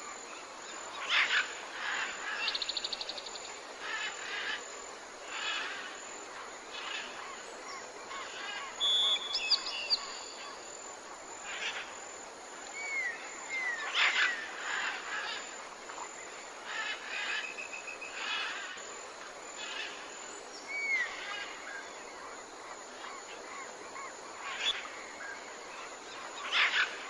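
Several wild birds calling over a steady outdoor hiss: short chirps, a few quick trills and some short swooping whistles, scattered irregularly throughout.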